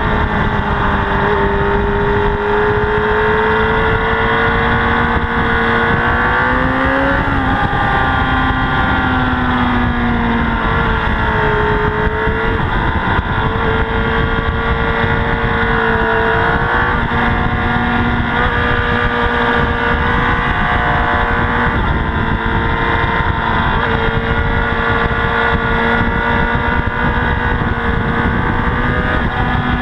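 Honda CBR1000RR's inline-four engine under way at track speed, recorded on board over heavy wind rush. The engine note rises and falls several times with throttle and gear changes.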